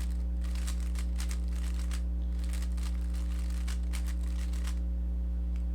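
Rubik's cube being turned quickly, its plastic layers clicking and clacking in rapid runs that stop about three-quarters of the way through. A steady low hum sits underneath and is the loudest sound.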